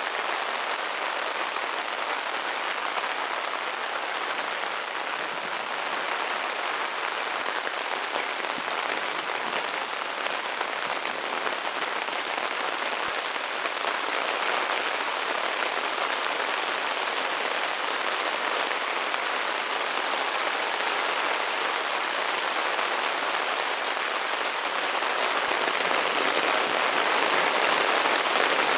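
Heavy downpour falling on a fishing umbrella overhead, a steady hiss of rain that grows a little louder near the end.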